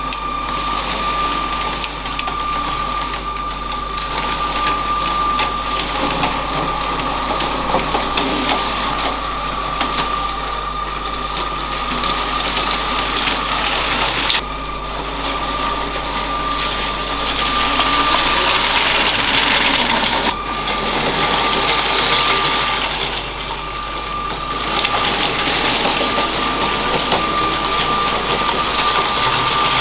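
LEGO train's small electric motor whining steadily while its wheels rattle over plastic track, swelling louder and fading several times as the train comes near and moves away. The sound breaks off abruptly twice and starts again.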